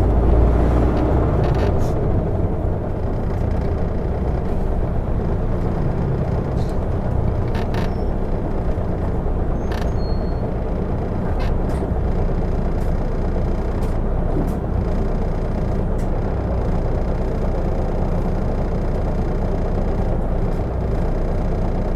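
Interior running sound of an Isuzu Erga city bus, type PKG-LV234N2, under way: a steady low rumble of diesel engine and road, heaviest in the first couple of seconds, with a few light clicks and rattles from the cabin.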